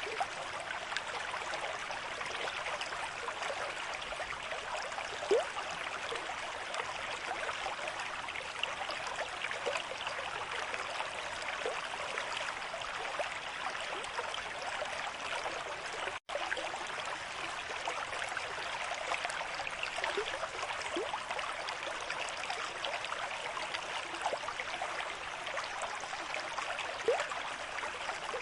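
River stream flowing steadily at a moderate rate, a continuous rush of water with small gurgles here and there. The sound drops out for an instant about halfway.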